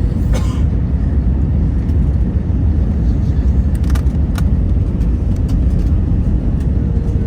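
Airbus A321neo heard from inside the passenger cabin: a steady, loud low rumble, with a few sharp clicks, one near the start and two about four seconds in.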